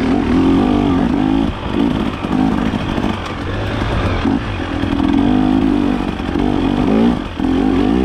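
Dirt bike engine riding on a rocky trail, the revs rising and falling every second or so as the throttle is worked, with a brief drop in loudness near the end.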